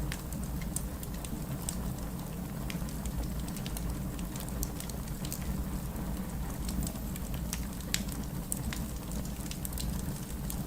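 Campfire burning steadily: a low rush of flames with frequent sharp crackles and pops from the burning wood, scattered irregularly.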